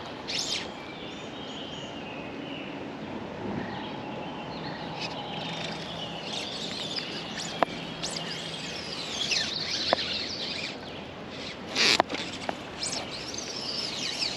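Songbirds chirping and calling over a steady outdoor background noise, with a couple of sharp ticks and a short, loud burst of noise about twelve seconds in.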